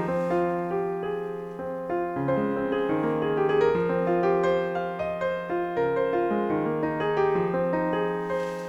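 Background piano music, gentle and slow, with sustained notes.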